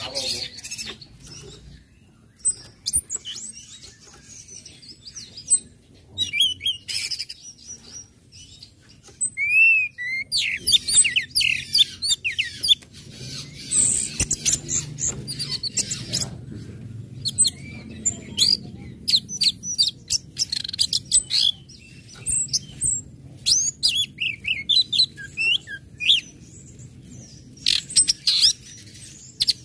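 Orange-headed thrush singing: a varied run of sharp chirps and whistled notes in quick bursts with short pauses. It is sparse at first and becomes busier and louder about a third of the way in.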